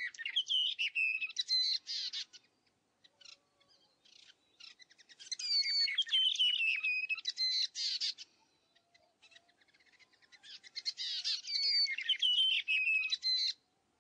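A songbird singing three quick warbling phrases of high whistled notes, each two to three seconds long, with pauses of a few seconds between them.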